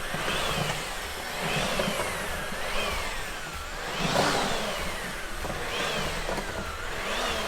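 Electric power-tool motor being revved up and let off again and again: its whine climbs quickly and sinks back more slowly, about once a second, over a steady whirring hiss.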